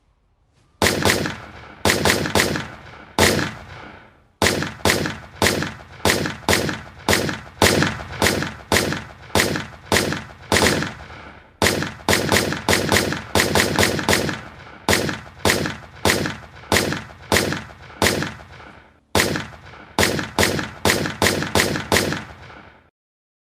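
Bradley fighting vehicle's 25 mm chain gun firing steady single shots at about two a second, each shot trailing off in a short echo, in long strings broken by three brief pauses.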